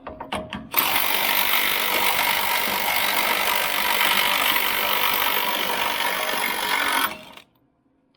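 A power tool runs in one continuous burst of about six seconds, after a few light clicks, and then cuts off suddenly.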